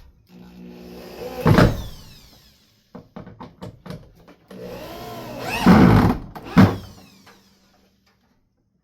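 Power drill driving screws into a wall shelf's support arms: two runs of a steady motor whine, each rising to a loud burst, the motor winding down about seven seconds in.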